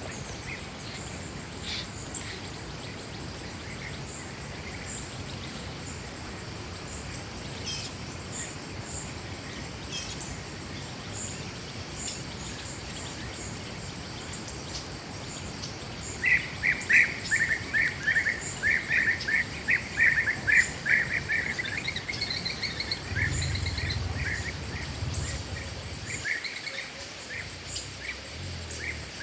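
Forest ambience with small high chirps repeating throughout, and about halfway through a bird starts a loud run of rapid repeated chirps that lasts about ten seconds.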